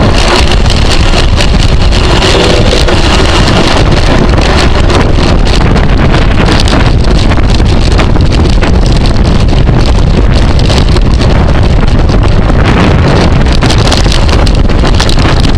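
Heavy wind noise rushing over the microphone of a bicycle ridden at racing speed, loud and steady, with scattered small clicks and rattles.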